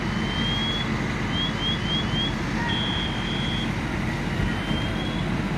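A high-pitched electronic alarm cycling through patterns: a rising sweep, four quick rising chirps, a steady two-step tone, then another slow rising sweep. Under it runs a steady low engine rumble.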